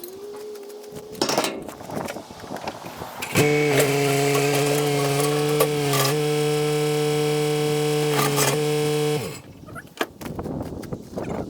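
Yanmar Vio70 excavator running, with a loud, steady hydraulic whine under load that starts abruptly about three seconds in, holds for about six seconds and cuts off: the hydraulics lifting one side of the machine. A few knocks come before and during it.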